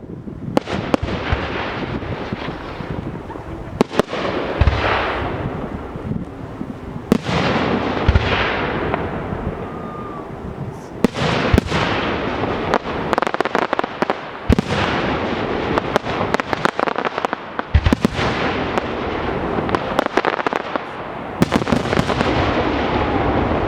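Fireworks display: a dense, continuous run of shell bursts and bangs with crackling in between.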